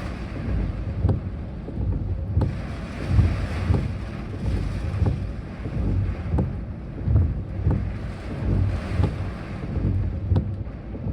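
Typhoon wind buffeting the microphone in uneven gusts, a low rumbling rush that swells and drops, with a few faint clicks.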